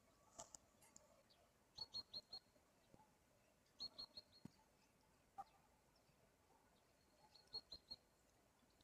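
Faint chirping of a small bird: three short runs of three or four quick high notes, a few seconds apart, with a few faint clicks between.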